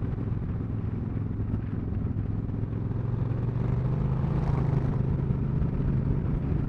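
Suzuki Marauder cruiser's engine running under way, heard from the rider's helmet, with a low steady hum that picks up in revs and loudness about halfway through.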